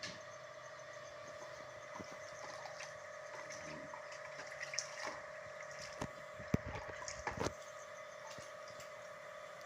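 Water splashing and trickling as refrigerator parts are rinsed, over a steady hum, with a cluster of sharp knocks and clicks from handling them about five to seven and a half seconds in.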